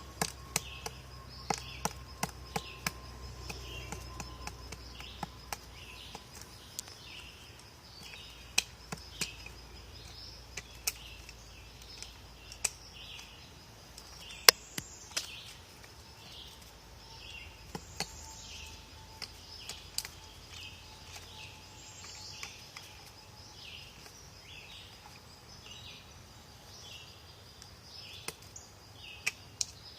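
Woodpecker pecking at wood: irregular sharp taps, bunched in the first few seconds and then scattered. Behind them a short high chirp repeats about one and a half times a second.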